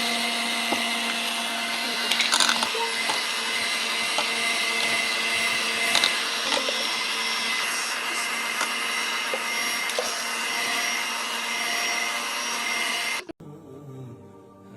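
Small electric kitchen appliance motor running steadily with a whine, mixing or blending the cheesecake ingredients. It cuts off abruptly near the end.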